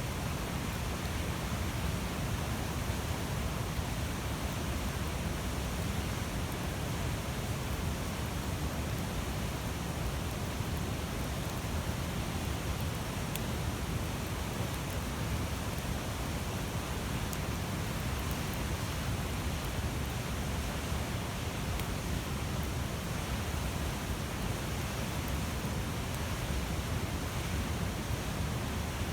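Large wood campfire burning steadily: a continuous low rush of flames with a few faint crackling pops.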